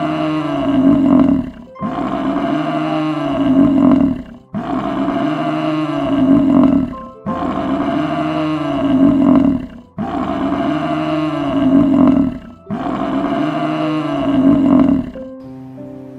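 A deep animal roar repeated six times at even intervals, each about two seconds long and rising then falling in pitch, over background music.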